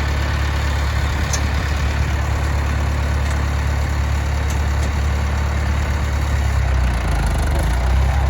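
International Harvester 574 tractor engine running steadily, its note shifting and getting a little louder near the end.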